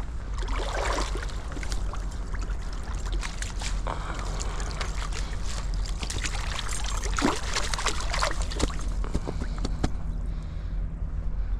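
Water splashing and dripping as a homemade seine net is rinsed and shaken clean in a river, with many irregular short splashes over a steady low rush of background noise.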